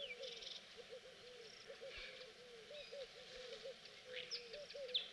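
Faint bird calls: a low call repeated in many short notes, a few times a second, with a few brief high chirps near the end. The sound cuts off abruptly at the end.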